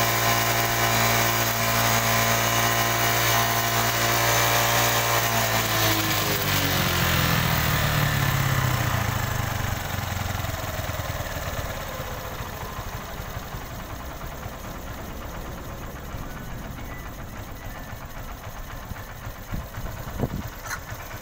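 Honda Dream Yuga's 110 cc single-cylinder four-stroke engine idling. About six seconds in, its speed drops over a few seconds to a lower, quieter and rougher idle as the carburettor's idle setting is turned down for mileage. There is a brief knock near the end.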